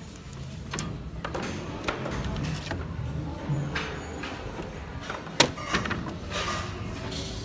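Wooden and glass picture frames knocking and clacking as they are handled and set against one another, a handful of sharp knocks with the loudest about five seconds in, over a store's low background hum.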